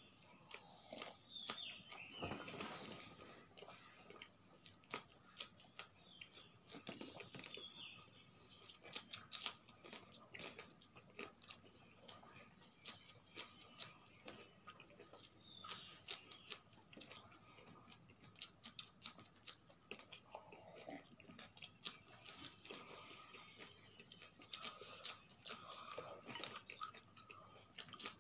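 Raw green chillies being bitten and chewed, with irregular crisp crunches throughout.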